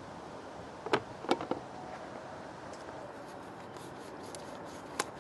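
A few light clicks and knocks over a faint steady hiss: three close together about a second in, and one more near the end.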